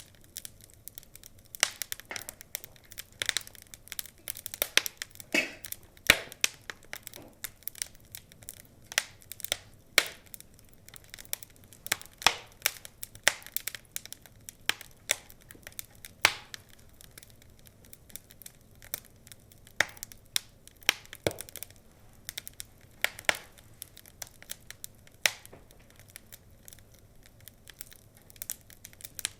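Wood fire crackling, with irregular sharp pops, sometimes several a second and sometimes a second or two apart, over a faint low hiss.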